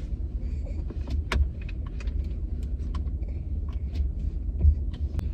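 Low, steady rumble of a car's idling engine heard from inside the cabin, with scattered small clicks and jangles.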